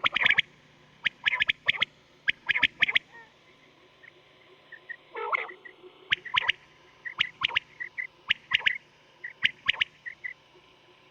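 Quail calling: quick groups of three or four short, sharp high notes, repeated several times, with one longer, lower call about halfway through and fainter short chirps between the groups.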